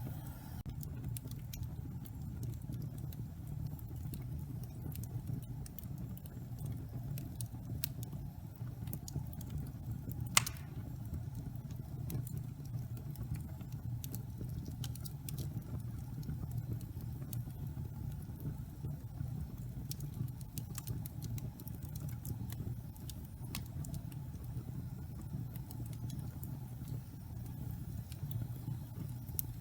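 Wood fire burning in a fireplace: a steady low rumble with scattered small crackles and one sharp pop about ten seconds in.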